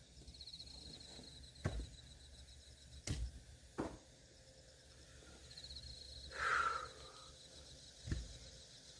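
Axe blows splitting firewood: four heavy thuds, two of them close together in the middle and one near the end. A short scraping rustle comes between the later blows.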